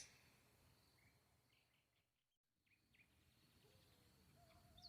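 Near silence, with a few very faint high chirps about midway.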